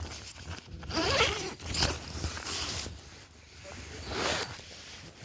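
A tent door zipper being pulled open, with the fabric flap rustling, in several quick noisy swishes.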